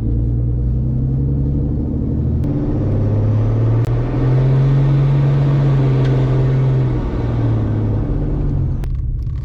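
Vehicle engine running under way, heard from a moving vehicle. Its low note steps up in pitch a couple of times, is loudest near the middle, then drops back near the end.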